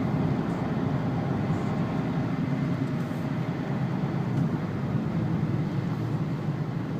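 Steady engine and road noise of a Renault Laguna wagon's 2-litre turbo diesel, heard from inside the cabin on a wet track.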